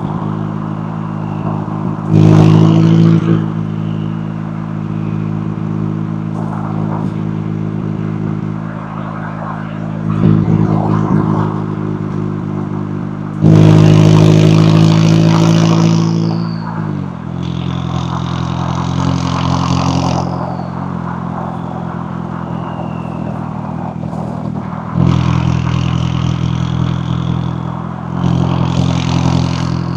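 McLaren 570S twin-turbo V8 exhaust while driving: a steady cruising note broken by five short bursts of throttle. The longest and loudest comes about halfway through, lasts about three seconds, and ends in a quick drop in pitch.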